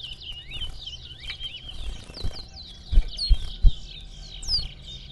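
Caged racing songbirds singing a fast string of short chirps and quick swooping whistles, the song that is counted note by note in the contest. A few low knocks come about three seconds in.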